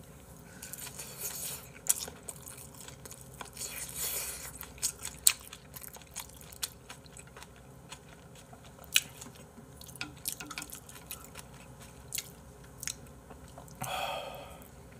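Close-miked eating: a man chewing mouthfuls of agujjim (braised monkfish) bibimbap, with sharp clicks of a spoon against the bowl. Near the end comes a slurp of doenjang soup from the spoon.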